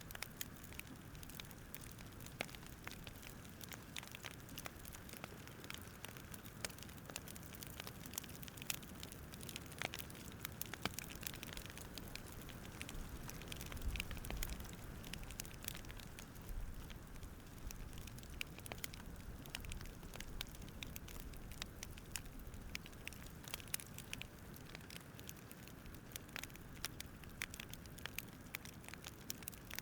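Wood fire crackling, with irregular small pops and snaps over a faint steady hiss.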